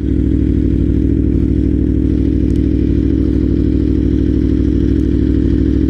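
Aprilia RSV4R's V4 engine idling steadily through a GPR Thunder Slash aftermarket exhaust, an even, unchanging low drone.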